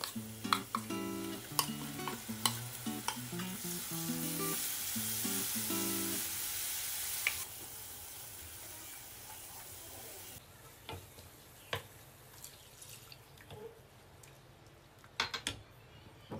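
Onions frying and sizzling in oil in a nonstick pan while a yogurt spice mixture is stirred in with a wooden spatula, with scrapes and taps of the spatula against the pan. The sizzle falls away sharply about seven seconds in, leaving a faint hiss and occasional spatula knocks. Background music plays over the first six seconds or so.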